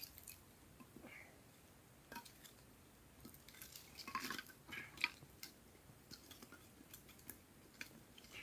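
Faint, scattered light clicks and knocks of split wooden sticks being handled and stacked crisscross into a small fire lay, a little busier about four to five seconds in.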